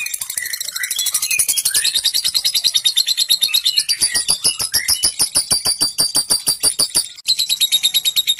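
Lovebird singing its long 'ngekek' song: a continuous, rapid high-pitched chattering trill of fast repeated pulses with chirps over it, breaking off briefly about seven seconds in before resuming.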